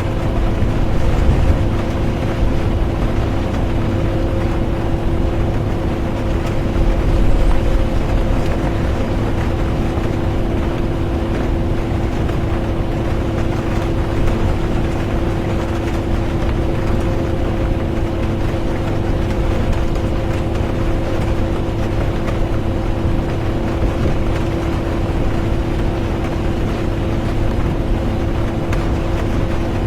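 Bus interior on the move: a steady engine and road drone with a constant hum, low rumble and rain noise over it. The rumble swells briefly about seven seconds in.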